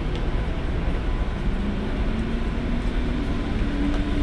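Freight train hauled by a JR Freight EH200 electric locomotive rolling past, a steady rumble of wheels on rail. A faint whine rises slowly in pitch from about a second and a half in.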